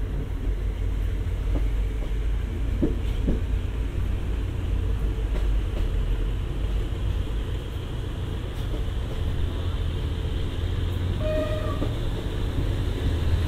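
Passenger train carriage running along the track: a steady low rumble with two short knocks about three seconds in. A brief pitched hoot sounds once, about eleven seconds in.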